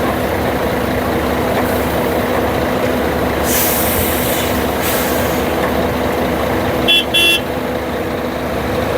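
Heavy truck engine running steadily, with a hiss of air about three and a half seconds in and a short double toot of a horn about seven seconds in.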